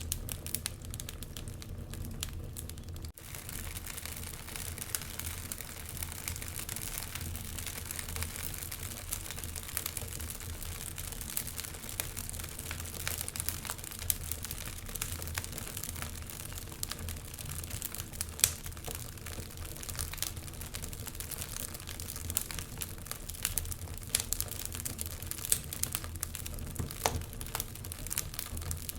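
Wood fire burning in a fireplace, crackling steadily with frequent sharp pops over a low rumble; the sound drops out for an instant about three seconds in.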